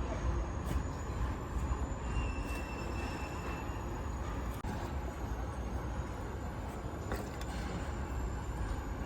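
Steady low rumble and hiss of foundry machinery, with a few faint knocks.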